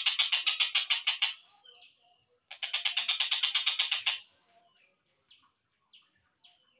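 Tengkek buto kingfisher giving a fast rattling trill of about nine to ten notes a second that stops after just over a second. A second rattle follows and lasts about a second and a half. A few faint short chirps come after it.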